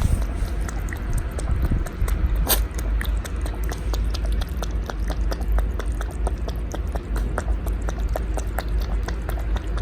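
Cat lapping milk: a quick, uneven run of small wet clicks, with one louder click about two and a half seconds in.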